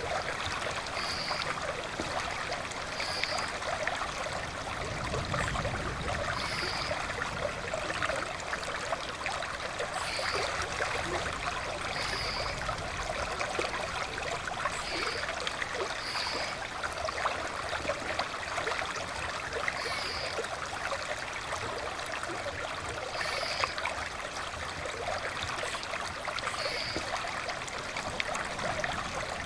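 River water flowing over rocks: a steady, even rush and trickle, with short high chirps recurring every second or few.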